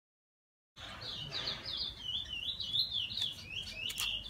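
A songbird singing a quick run of high, warbled chirps, starting about a second in, with a couple of sharp clicks near the end.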